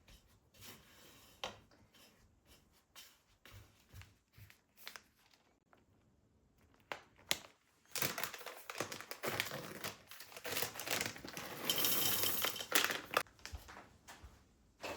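Scattered light clicks and taps, then a few seconds of continuous crinkling and rustling, like handled packaging, starting about halfway through, with a sharp click at the very end.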